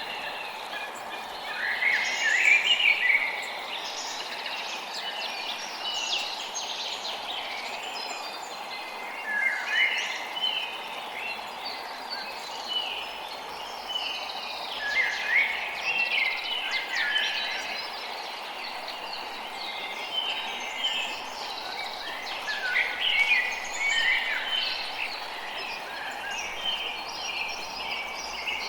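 Forest birdsong: birds chirping in bursts of quick sliding notes every few seconds over a steady background hiss.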